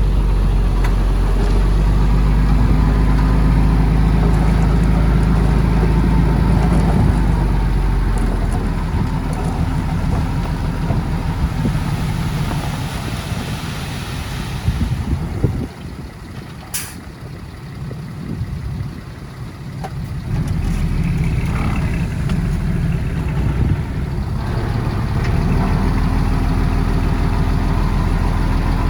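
Heavy diesel engine of earthmoving machinery working, loud and steady with a deep pitch. A little past halfway it drops away, with a single sharp click, then comes back up strong near the end.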